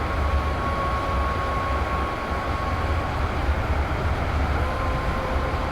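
Deep, steady rumble with a faint, held musical tone above it.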